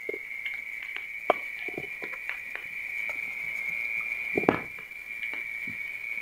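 Burning coconut coir crackling, with irregular small pops and snaps, two of them louder about a second in and about four and a half seconds in, over a steady high-pitched tone.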